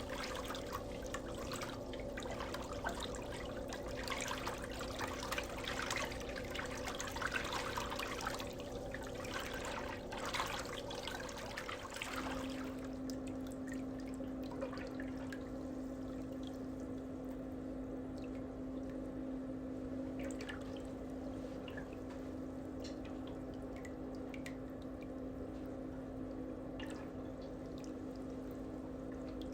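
Water trickling and splashing for about twelve seconds over a steady low hum; then the splashing stops and the hum continues with a few faint drips and ticks.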